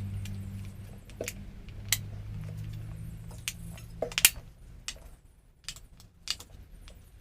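Metal tools and parts clinking and tapping, with a scatter of sharp clinks, the loudest a little after four seconds in. Under them a low hum fades out about halfway through.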